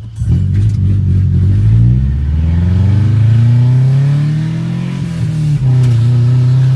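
2001 Subaru Outback Sport's flat-four boxer engine running through an exhaust with the catalytic converter and muffler removed, pretty much a straight pipe, so it is loud. The revs climb steadily for about three seconds, ease a little, dip briefly near the end, then hold higher.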